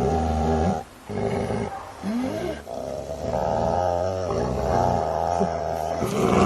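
Fierce dog growling: long, low growls with a short break about a second in.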